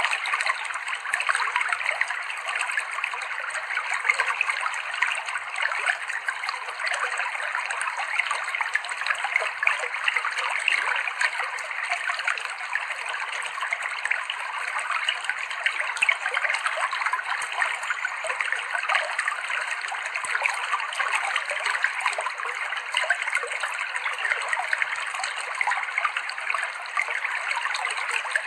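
River water running over rocks, a steady even rush with fine splashing texture and no pauses.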